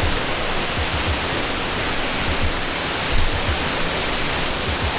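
Waterfall close by, a steady dense rush of falling water with low rumbling swells.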